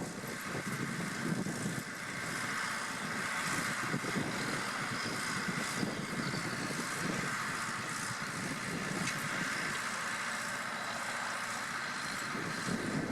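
John Deere 2030 tractor's diesel engine running steadily under way, a fast low throb with a steady higher whine above it.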